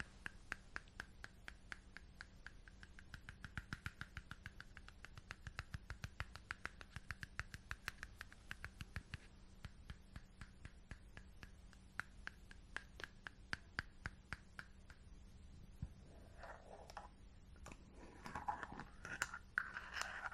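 Rapid light tapping on a glass jar and its metal lid, several taps a second, the glass giving off a faint ringing through the middle stretch. Near the end the tapping gives way to scratchy rubbing on the jar.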